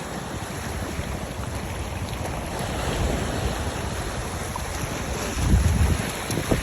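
Wind buffeting the microphone over the wash of sea waves, with a stronger gust about five and a half seconds in.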